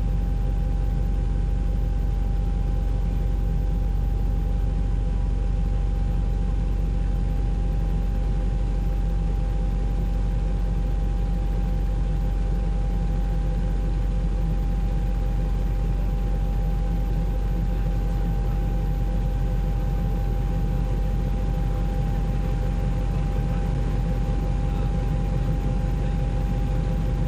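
Steady helicopter cabin noise: a constant low rumble with a thin, steady whine over it.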